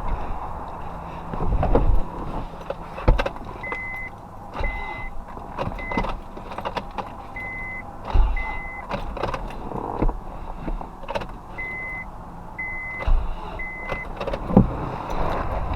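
Irregular sharp clicks and knocks, with short high single-pitch beeps coming in three clusters, around a Honda Accord being worked on for a no-crank fault.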